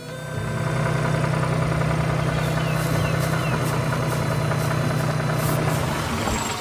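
A vehicle engine running steadily at idle, with a low, even hum that fades down near the end.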